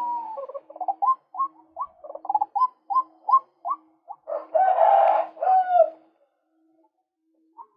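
Male white-breasted waterhen calling: a fast series of short, repeated nasal notes at about three a second, swelling into a louder, harsher stretch of calls about halfway through, then stopping about six seconds in.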